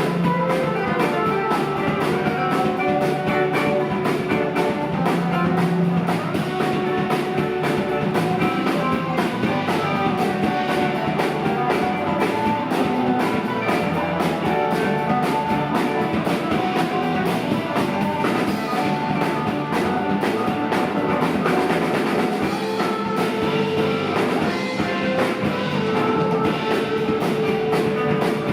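A live rock band playing, with guitar and drum kit, and no singing.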